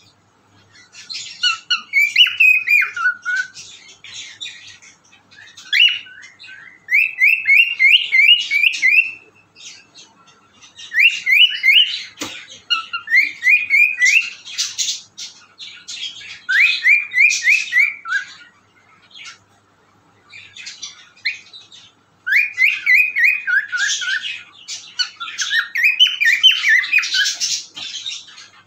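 Pet cockatiel whistling and chirping in bouts of quick, rising whistled notes mixed with scratchy chatter. Short pauses fall between the phrases.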